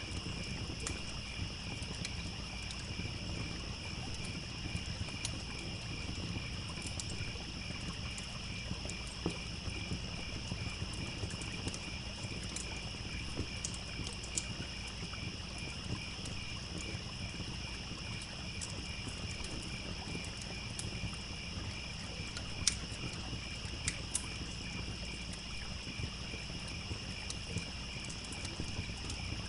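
Crickets chirping in a steady, pulsing chorus over the low, even rush of a trickling stream, with scattered small crackles and pops from a wood campfire, one sharper pop about two-thirds of the way through.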